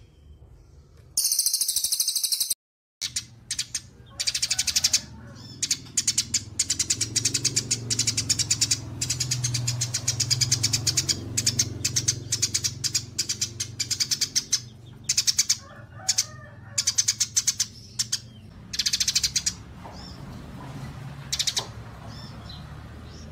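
Songbird calls from a bird-mastering recording: long runs of rapid, high-pitched chattering trills, with a steady low hum underneath. The sound cuts out briefly about three seconds in.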